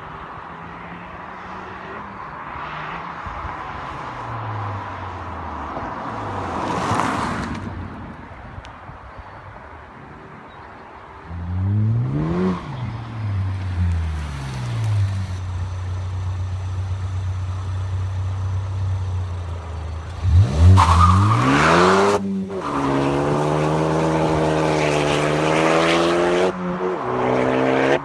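Exhaust of a Ford Focus ST with the muffler deleted, giving a loud, unmuffled note. The car passes by, swelling and fading about seven seconds in. From about eleven seconds it is much louder and close: the revs rise and fall, settle into a steady drone, climb sharply again a little after twenty seconds, then hold a steady, slightly wavering note.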